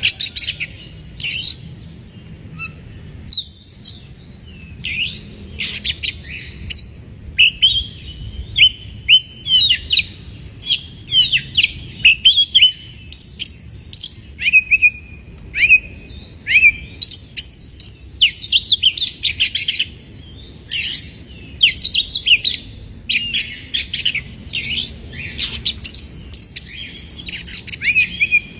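Oriental magpie-robin (kacer) singing in short, rapid phrases of varied whistles, chirps and trills separated by brief pauses, over a faint low steady rumble.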